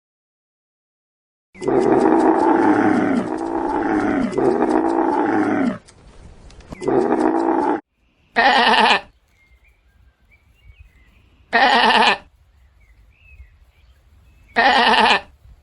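Farm animal bleating: a long wavering bleat, a shorter one, then three short bleats about three seconds apart.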